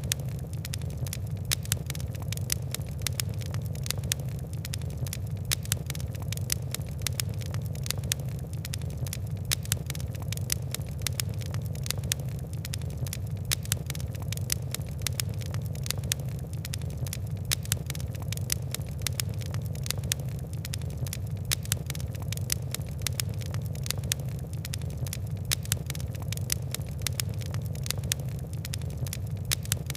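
Fire burning with wood and coal: a steady low rumble of flames with many small, sharp crackles and pops scattered irregularly throughout.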